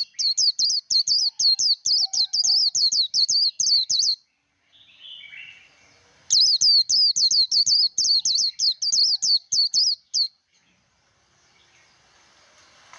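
White-eye (vành khuyên) singing a rapid, high twittering song, several quick notes a second in two runs of about four seconds, with a short pause between them holding a few softer, lower chirps; the song stops about three seconds before the end.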